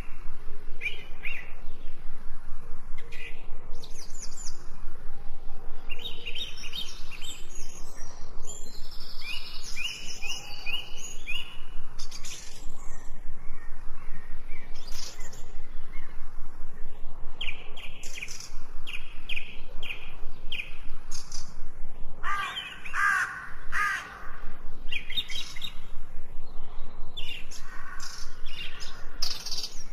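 Several songbirds chirping and singing in short, quick, high phrases, with a lower, harsher call about two-thirds of the way in.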